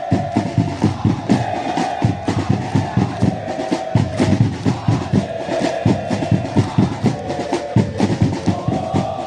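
Supporters' drums beating a fast, steady rhythm under a crowd of fans chanting together.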